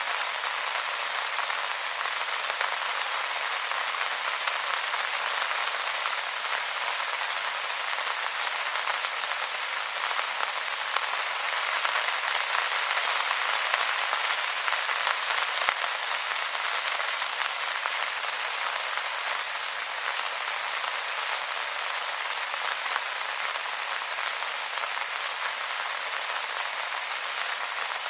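Steady rain falling on wet leaves, an even hiss of many small drop patters, swelling slightly about halfway through.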